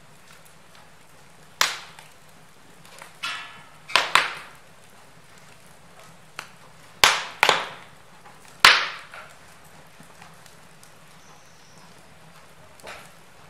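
Wood fire burning in a fireplace: irregular sharp pops and cracks from the burning logs over a faint steady hiss, the loudest pops clustered in the middle.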